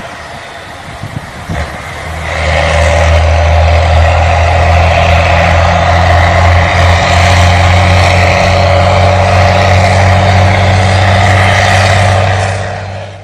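A vehicle engine running at a steady speed. It comes in about two seconds in, after a few light knocks, holds an even drone, and cuts off abruptly at the end.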